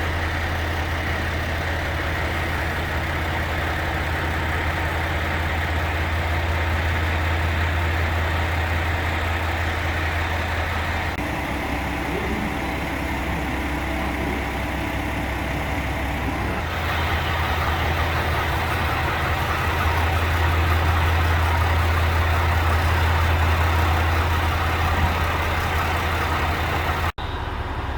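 Diesel engine of a KiHa 281 series railcar (355 hp, two per car) running, a steady low drone with noise above it. The sound grows fuller about sixteen seconds in.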